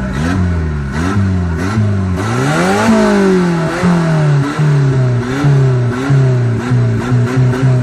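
Turbocharged VW Gol engine being revved in repeated throttle blips. Each blip's pitch climbs quickly and falls back, with one longer climb about two seconds in and a run of quick blips toward the end.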